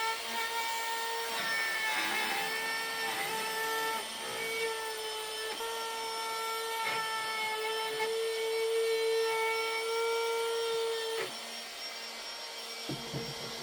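Woodshop power tool motor running at a steady pitch, with some rubbing and cutting noise, then switched off about eleven seconds in, leaving a lower steady hum and a couple of knocks near the end.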